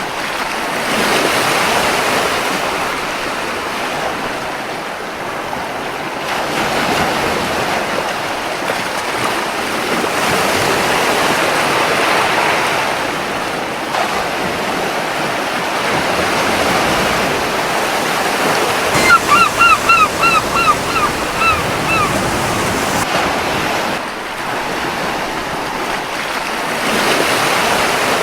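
Gentle ocean waves washing onto a beach, swelling and falling every few seconds. A bit past two-thirds in, a gull gives a quick series of about eight short calls.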